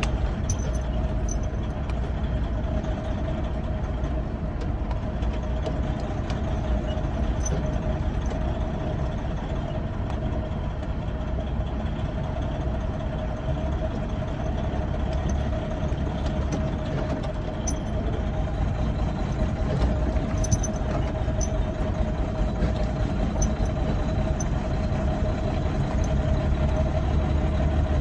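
Semi truck's diesel engine running steadily at low speed, heard from inside the cab: a low rumble with a constant mid-pitched hum.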